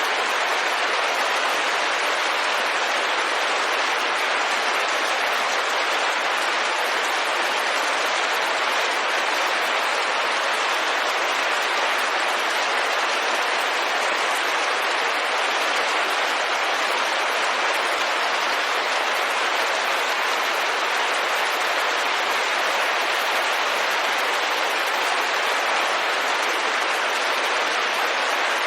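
Steady, dense rain on a window pane, an even hiss with no let-up or separate drops standing out.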